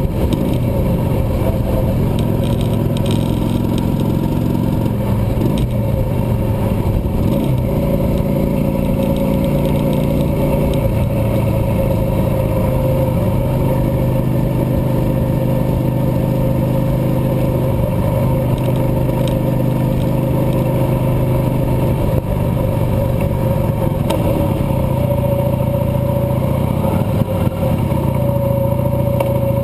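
Cruiser motorcycle engine running on the road, its pitch rising and falling several times with throttle and gear changes.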